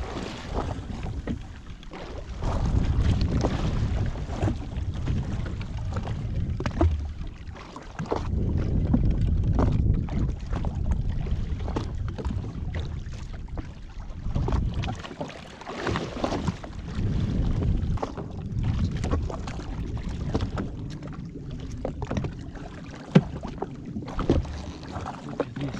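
Wind buffeting the microphone and water sloshing against a jet ski at sea, rising and falling in uneven surges with scattered small knocks.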